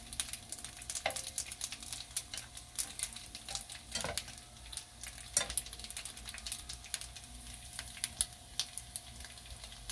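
Dumplings pan-frying in oil in a nonstick frying pan: a steady crackling sizzle, with a few louder knocks about a second, four and five seconds in.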